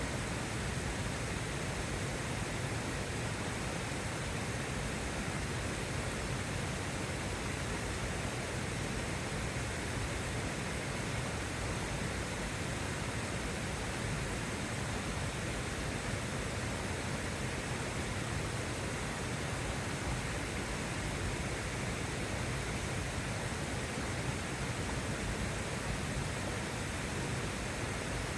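A steady, even rushing noise, unchanging throughout, with no separate drops, crackles or knocks standing out.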